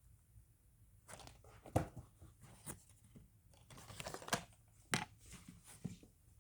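Cardboard jigsaw puzzle pieces and box being handled: faint rustling and scattered light taps and clicks, starting about a second in, with a few sharper taps among them.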